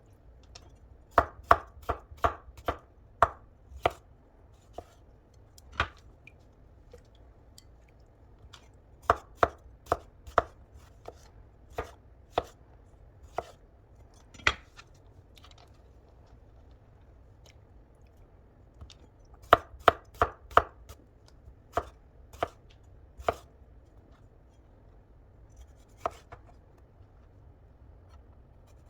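Knife chopping food on a cutting board, in short runs of quick chops with pauses and single cuts between.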